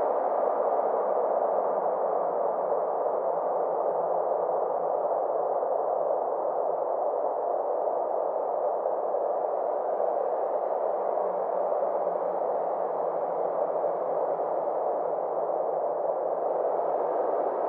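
Synthesized space ambience: a steady drone of filtered noise with a faint low hum, its brightness slowly sweeping up and down.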